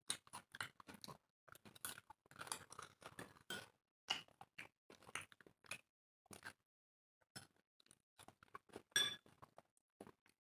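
People chewing and crunching food in short, irregular bursts, with a few pauses; the loudest sound is a bright click about nine seconds in.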